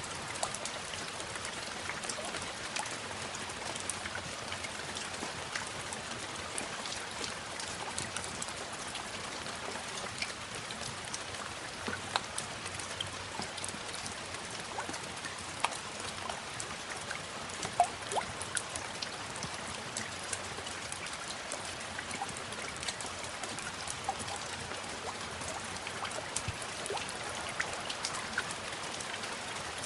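Steady rain, with many individual drops ticking sharply on a hard surface.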